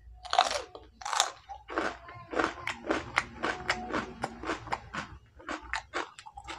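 A man biting into a raw cucumber stick and chewing it. The first crisp crunches of the bites come about half a second and a second in, followed by a quick run of chewing crunches, about three a second.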